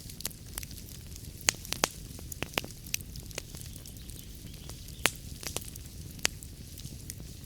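Wood fire crackling in a fireplace: irregular sharp pops and snaps over a low, steady rumble of flames. The loudest pops come about a second and a half in and again about five seconds in.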